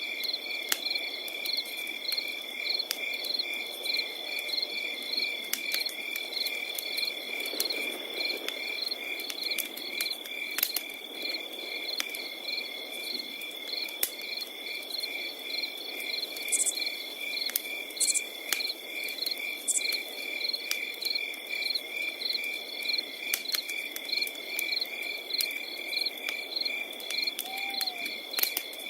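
Crickets chirping without a break: one steady high trill under a second cricket's high chirps pulsing evenly a few times a second. A wood fire crackles with scattered sharp pops over a soft low hiss of burning.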